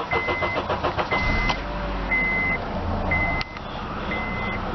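2008 Honda Accord engine cranking briefly on jump-box power and catching about a second and a half in, then running steadily; the battery has run down. The car's warning chime beeps about once a second throughout.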